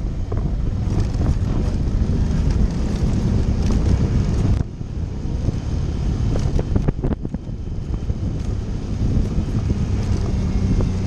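Suzuki V-Strom motorcycle engine running on a dirt trail, with wind on the microphone. The sound drops off suddenly a little before halfway, then comes back. A few sharp knocks follow.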